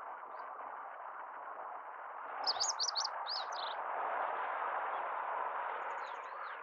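Male meadow bunting singing one quick phrase of high, sweet notes about halfway through, with a few fainter high notes near the end, over a steady hiss of background noise.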